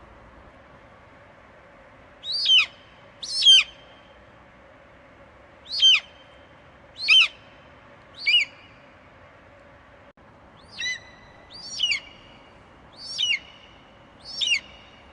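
An eagle screeching: nine short, high calls, each sliding sharply down in pitch, starting about two seconds in and spaced a second or so apart, over a steady faint hiss.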